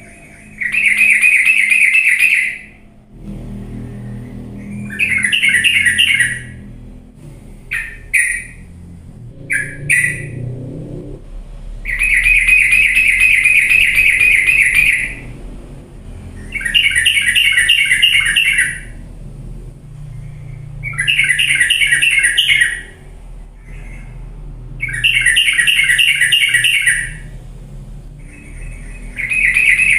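Yellow-vented bulbul (trucukan) singing loud, rapid chattering phrases about two to three seconds long, repeated about seven times with short pauses between. A few short single notes come between the second and third phrases. It is the busy, energetic 'gacor' song used as a bait recording to set other bulbuls singing.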